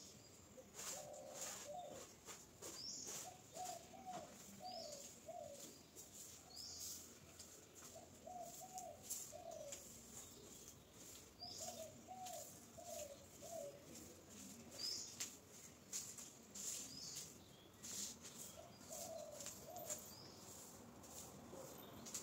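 Birds calling, faint: a low cooing call repeated in phrases of three or four notes every few seconds, with scattered short high chirps and light clicks.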